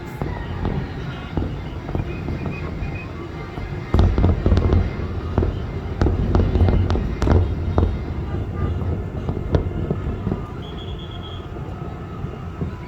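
Aerial fireworks bursting in quick succession: deep booms and many sharp cracks, at their densest and loudest from about four to eight seconds in, then thinning out.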